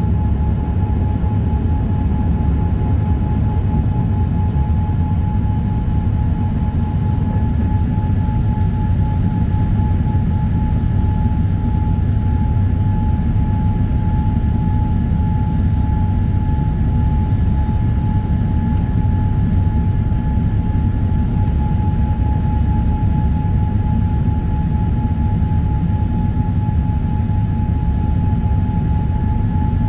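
Boeing 787-9 airliner cabin noise: a steady low rumble of engines and airflow, with a thin steady whine over it.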